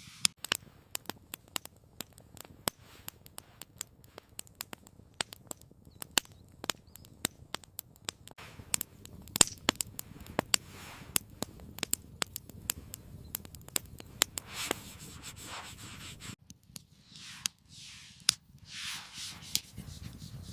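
Wood campfire crackling, with many irregular sharp pops and snaps and a few soft swells of hiss in the second half.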